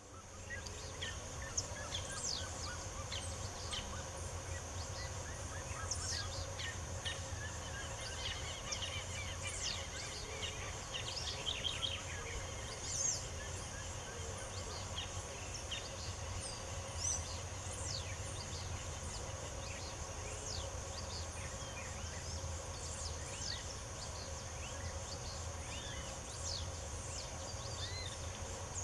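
Several songbirds chirping and singing in short calls and whistled sweeps, with a rapid trill about eleven seconds in. Underneath run a steady high-pitched buzz and a low background hum.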